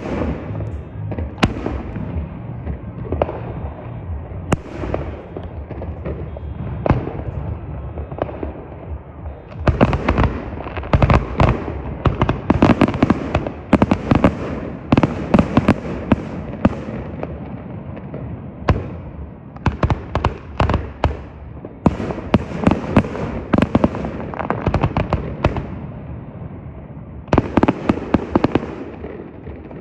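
Fireworks going off: scattered bangs at first, then dense rapid volleys of bangs and crackling about ten seconds in, again a little before halfway through the second half, and one more short volley near the end.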